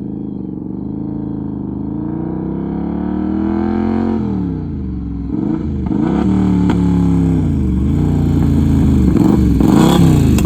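Triumph Bonneville America's 790 cc parallel-twin engine revving through a loud straight-pipe exhaust. A slow rev climbs for about four seconds and drops back, then the throttle is blipped quickly about six times.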